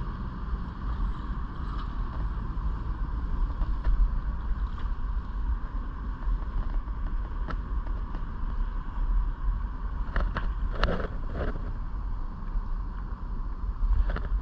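Steady low rumble of wind buffeting the microphone over a constant background hum, with a few short sharp clicks about ten to eleven seconds in and again near the end.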